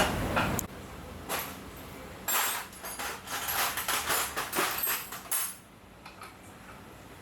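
A series of short metallic clinks and rattles, like parts or tools being handled, bunched between about one and five seconds in, then quiet.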